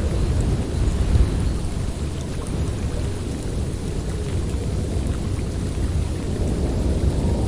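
Blizzard wind blowing steadily, a dense, deep rush that swells and eases slightly.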